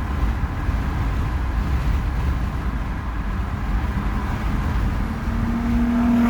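Steady low road and engine rumble inside a moving car, with a faint steady hum joining about four seconds in.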